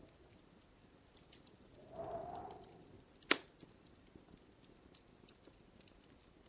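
Wood fire crackling in a fireplace, with scattered small pops and one sharp, loud pop a little over three seconds in. About two seconds in there is a soft swelling hum that lasts about a second.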